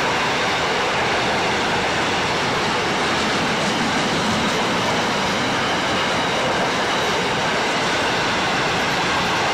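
Grain train hopper wagons rolling past, a steady noise of steel wheels running on the rails.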